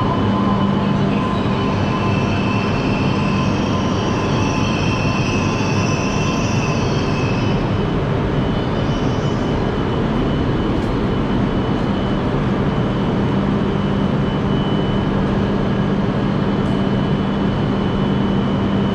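Interior noise of a Hayabusa Shinkansen train running: a steady rush and rumble with a constant low hum and a thin high whine, the whine strongest during the first eight seconds or so.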